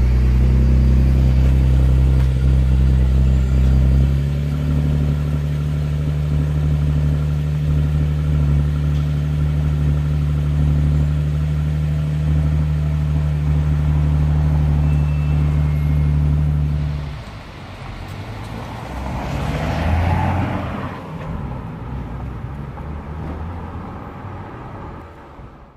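Nissan 370Z Nismo's 3.7-litre V6 idling steadily through its twin exhausts, settling to a slightly different note about four seconds in. The idle stops after about seventeen seconds, followed by a swell of vehicle noise that rises and fades away.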